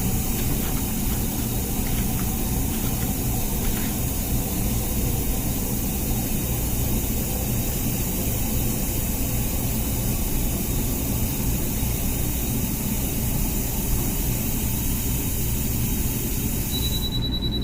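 Comfee dishwasher running its wash cycle: steady water spray over a low pump hum. A steady high-pitched tone comes in near the end.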